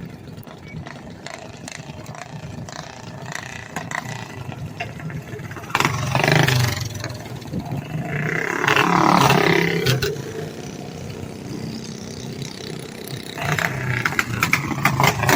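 Small racing engines running on a kart track, growing loud as machines pass about six seconds in, again around nine seconds, and again near the end.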